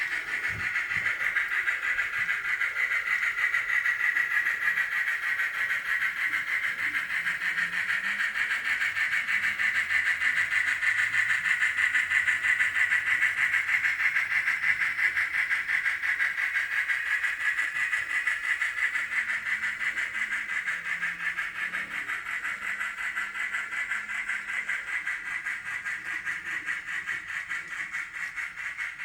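N scale model of the Union Pacific 4014 Big Boy steam locomotive and its excursion train running past, a steady whirring hiss with a fast flutter that grows louder toward the middle and fades in the second half.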